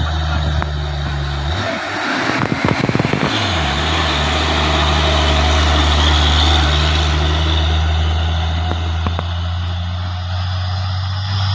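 Heavy diesel truck engine labouring up a steep climb at close range. About a second and a half in, its note drops, with a burst of rattling, then climbs back and holds steady.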